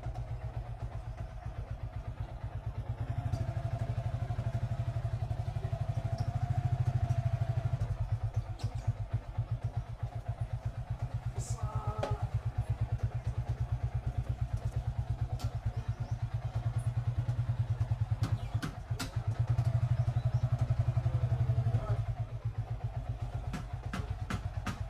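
A motorcycle engine running at low alley speed, a steady low pulsing that grows louder twice for a few seconds as the bike picks up, with scattered light clicks and clatter.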